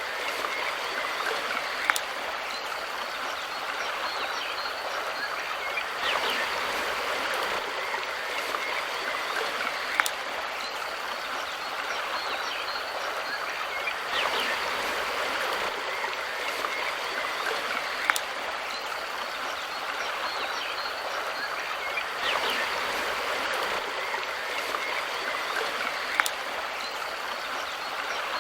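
Mountain river flowing, a steady rushing of water, with a sharp click about every four seconds.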